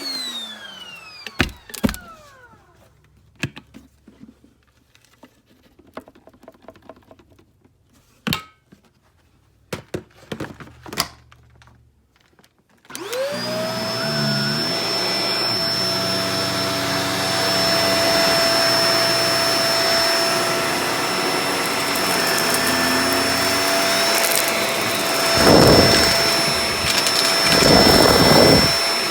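Shark Professional Powered Lift-Away DLX (NV586) vacuum cleaner motor winding down, followed by a quiet stretch of scattered clicks and knocks. About thirteen seconds in the motor is switched on again, whines quickly up to speed and runs steadily, with louder surges of rushing air near the end.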